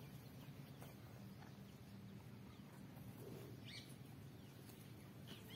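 Quiet outdoor background, near silence, with a bird chirping briefly about three and a half seconds in.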